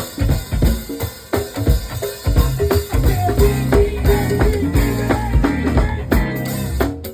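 A live band playing: a drum kit keeps a steady beat with bass drum and snare hits over a bass line and held melodic notes.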